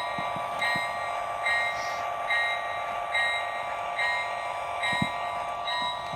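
Lionel LionChief Plus BNSF model diesel locomotive's onboard sound system playing its locomotive bell, ringing evenly a little over once a second over a steady hum.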